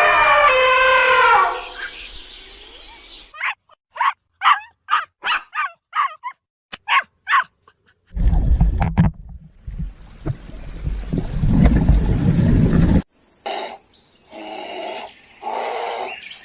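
A sequence of different animal calls: a long pitched call at the start, then a run of about ten short chirps, then a low rough noise for several seconds, then a different call repeated in pulses over a steady high tone.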